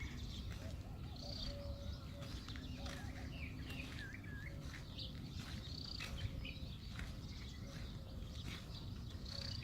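Small birds chirping and calling. There are short high arching chirps every few seconds, a run of twittering calls about four seconds in, and a lower warbling call, over a steady low outdoor rumble.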